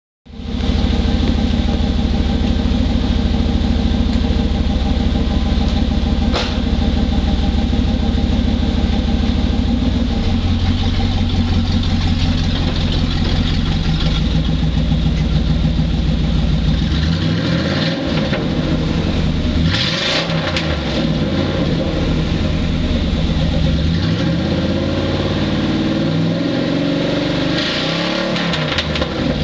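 1996 GMC Sierra C2500's 5.7-litre 350 V8 running through an open exhaust, muffler and tailpipe removed. It idles steadily for about the first half, then is revved up and let back down several times.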